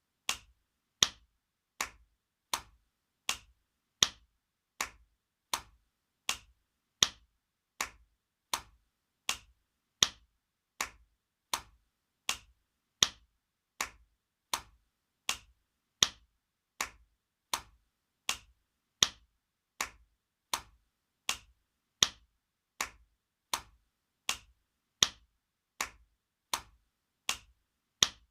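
Spanking sound effect: a hand slap repeated about four times every three seconds, each one a single sharp smack that dies away quickly, the loudness varying a little from slap to slap.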